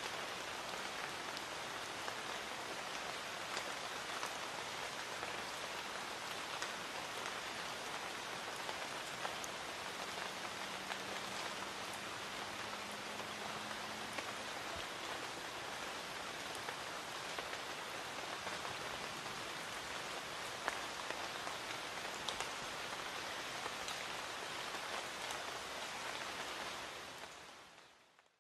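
Light rain falling steadily: a dense, even hiss with scattered sharper drop ticks. It fades out near the end.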